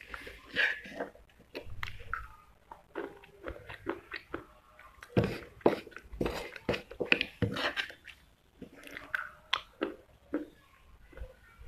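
Close-up chewing of moist clay eaten by the spoonful: irregular crunching and wet mouth clicks.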